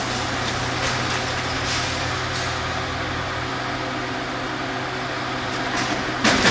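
Heavy diesel demolition machinery running steadily with a low hum, with faint knocks and a sudden loud crash near the end.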